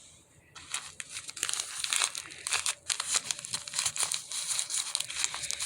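Gift wrapping crinkling and rustling, starting about half a second in and carrying on as dense, crackly handling.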